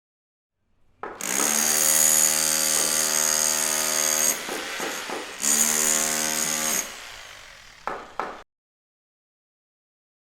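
Power saw running at a steady pitch in two spells, the first about three seconds long, the second shorter and winding down, followed by two short clicks.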